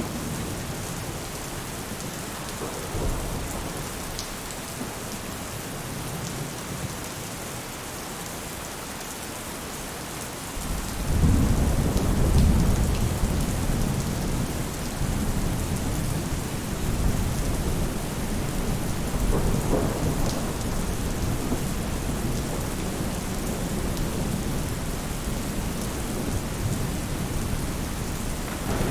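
Steady rain falling on a roof. About ten seconds in, a low rumble of thunder swells up and keeps rolling underneath the rain.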